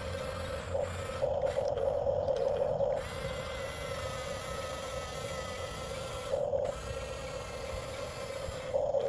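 Electric drive motors and gearboxes of a 1/14-scale Huina RC bulldozer whirring steadily, growing louder three times: from about a second in, briefly around the middle, and again near the end.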